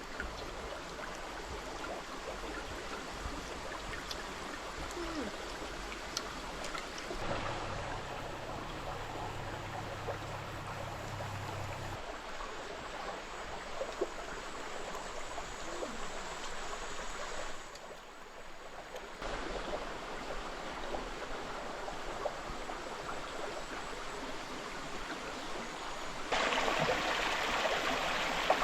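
A stream flowing and trickling steadily over rocks. The water's sound changes abruptly several times and gets louder near the end, as separate takes follow one another.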